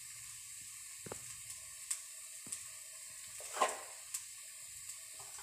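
Faint steady sizzle of potato and masala in a metal kadai on a gas stove, with a few light clicks and taps; the loudest tap comes a little past halfway.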